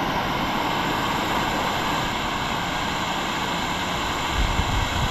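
Steady rushing of river water flowing around the rock, with a few low bumps near the end.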